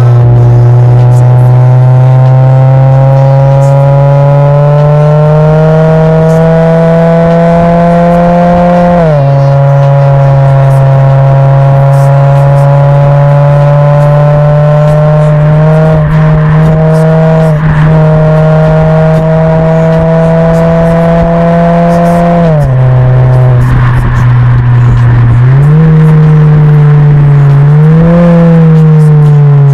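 Hyundai LF Sonata engine and dual variable-valve exhaust pulling under acceleration. The note climbs slowly for several seconds, drops sharply at a gear change about nine seconds in, climbs again and drops once more about two-thirds of the way through. Near the end it rises and falls with the throttle.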